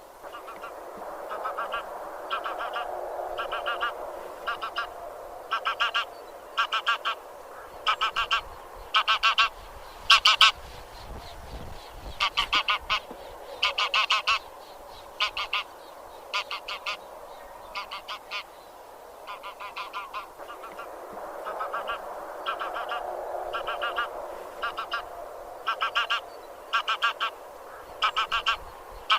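A flock of Anser (grey) geese honking: short bursts of a few calls each, coming about every second, over a steady background chatter of more distant geese. The calls are loudest about a third and halfway through.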